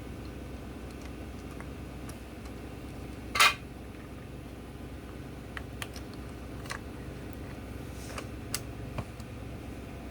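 Small clicks and light knocks of parts being handled, with one louder, brief clatter about a third of the way in, over a steady low hum.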